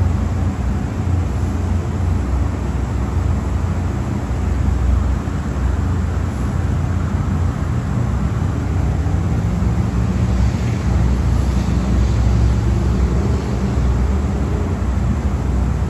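Loud, steady drone of car wash machinery, with a low hum under a broad rushing noise.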